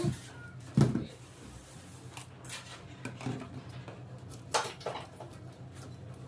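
Light knocks and clatters of utensils on a hard surface, the loudest about a second in and another a little past the middle, with fainter clicks between, over a steady low hum.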